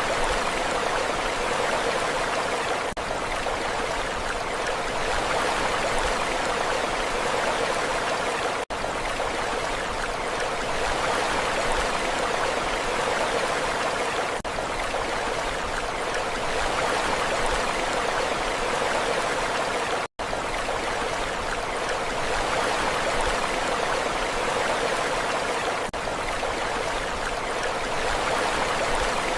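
Continuous rushing water at a steady level, a sleep-ambience recording billed as the sea, with no distinct wave swells. It cuts out for an instant twice, about a third and two thirds of the way through.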